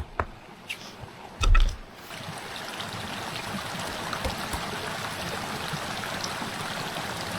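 A few knocks and one heavy low thump in the first two seconds, then a steady rush of running water speckled with small drips and ticks.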